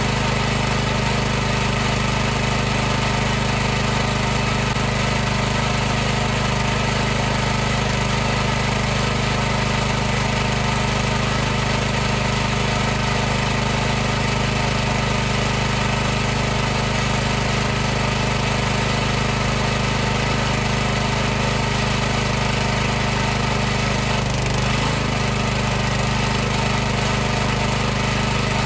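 High-pressure washer's motor and pump running steadily: a constant mechanical hum with a hiss over it, wavering briefly in pitch about 25 seconds in.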